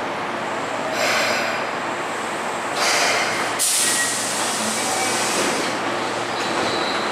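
Keihan electric commuter train at the station platform, a steady running noise broken by hisses of air: a short one about a second in, then a louder one from about three and a half seconds in that lasts nearly three seconds.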